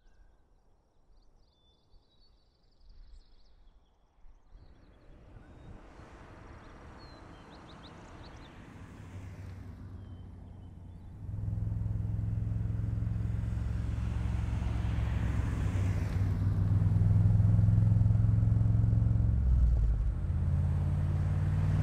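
Iso Grifo's Chevrolet V8 engine running as the car drives, coming in suddenly about halfway through and swelling louder near the end, with faint high chirps in the quiet before it.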